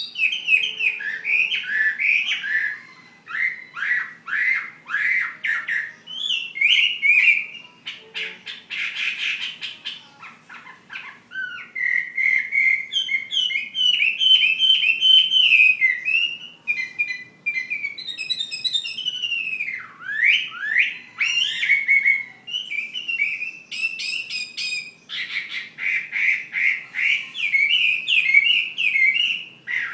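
Chinese hwamei singing a long, loud run of varied phrases: quick rising and falling whistles, rapid trills and slurred notes, with a brief lull about ten seconds in.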